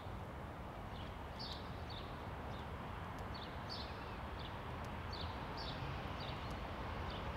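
A small bird calling, a run of short high chirps about twice a second, over a steady low background rumble.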